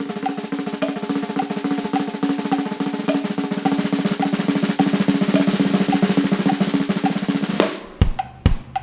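Drum kit: a long, fast, even roll on the snare drum, then it breaks off about three quarters of the way in into separate bass drum and snare hits.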